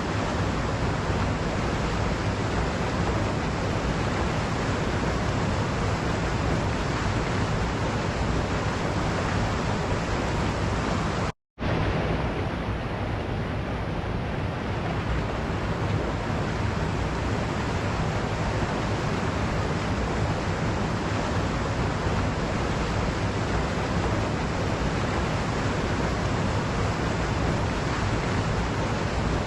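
Waterfall's steady rushing water. There is a brief dropout to silence about eleven seconds in, after which the rushing comes straight back.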